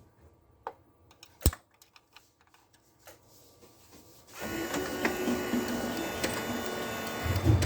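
A few sharp clicks, then about four seconds in the waste-toner motor of a Toshiba 20-series copier starts and runs steadily with a thin whine. A low thump comes near the end.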